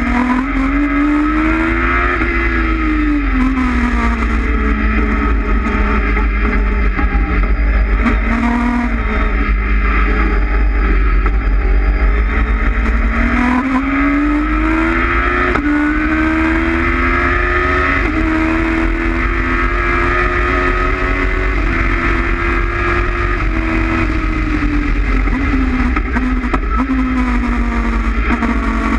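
Honda CBR900RR inline-four engine of an MK Indy kit car driven hard on track, heard onboard: the revs rise and fall repeatedly through corners, with sudden pitch steps at gear changes. A steady low rumble runs beneath it.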